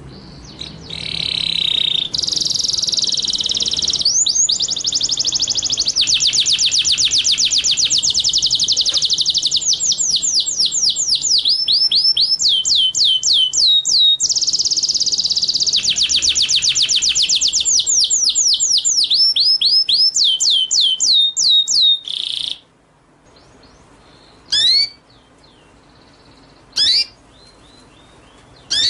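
Recorded song of a small songbird: long, fast, high-pitched trills of rapidly repeated notes, each sliding downward in pitch. The trills stop about 22 seconds in, and a few single sharp calls follow, a couple of seconds apart.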